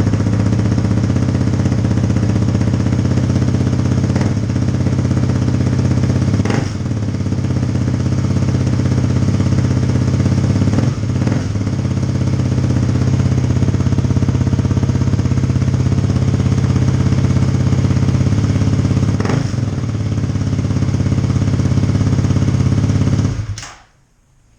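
2018 Kawasaki KLX250's single-cylinder engine running through an FMF Q4 slip-on exhaust with its silencer insert fitted, loud and steady at idle with a few short throttle blips. The engine is shut off near the end.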